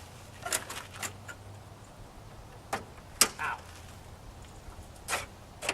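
A handful of short plastic clicks and knocks from headlight-housing retaining pins being twisted and worked loose, the sharpest about three seconds in, over a faint low steady hum.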